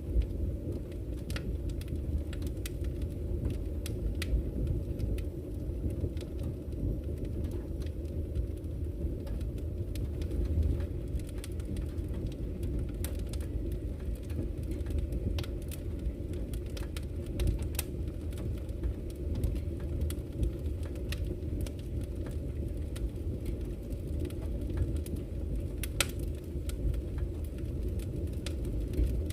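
Campfire crackling with scattered sharp pops, over a steady low rush of flowing river water.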